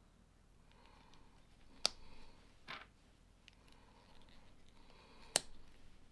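Plastic Lego bricks being handled and snapped together: two sharp clicks, about two and five seconds in, with a softer knock between them over faint rummaging.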